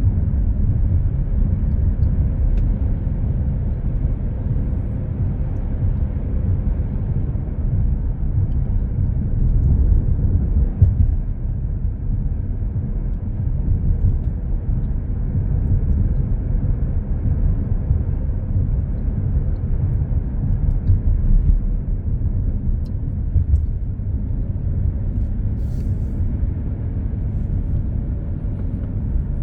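Steady low road rumble of a car driving on an expressway, heard from inside the cabin: tyre and engine noise with no distinct events.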